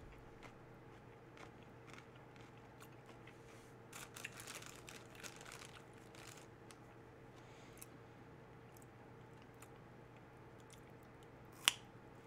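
A person chewing raw baby carrots: faint crunching with small clicks, busier for a couple of seconds around the middle, and one sharp, louder crunch near the end.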